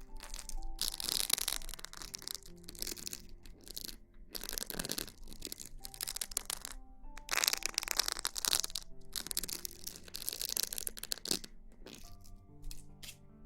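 Close-miked ASMR rustling in repeated scratchy bursts of a second or two each, with short pauses between and a few light clicks near the end, over soft background music with held notes.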